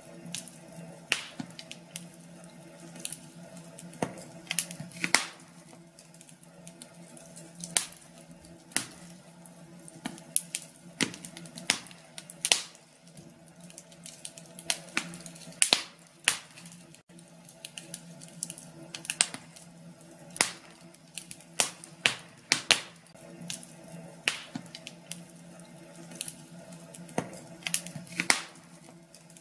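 Wood fire crackling in a fireplace: irregular sharp pops and snaps, louder ones every second or so, over a faint steady low hum.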